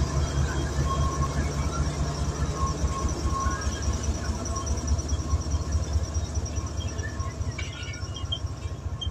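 Pakistan Railways Green Line passenger train pulling slowly out of the station, its coaches rolling past with a steady low rumble that eases slightly toward the end, over a faint steady high whine.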